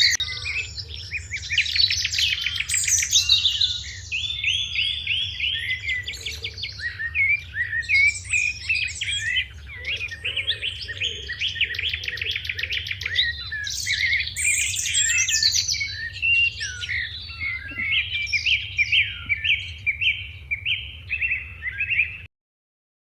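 Sparrows chirping in a busy chorus, with rapid repeated chirp series overlapping one another. The recording cuts off abruptly near the end.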